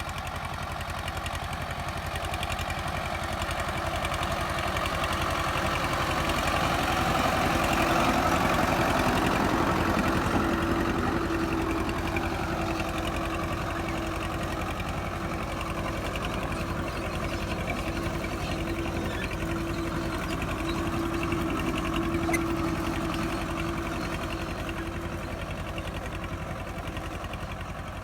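Diesel engine of a Mahindra 255 tractor running steadily while it works the field sowing maize. It grows louder toward about eight to ten seconds in, then eases off a little.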